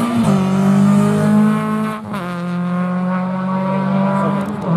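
Rally car engine running hard at high revs under load, with two brief dips in the engine note, about a fifth of a second and two seconds in, as the driver changes gear.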